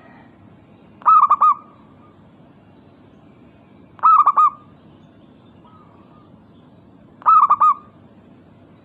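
Zebra dove (perkutut) cooing: three short phrases of rapid, ringing coos, about three seconds apart, with a much fainter call between the second and third.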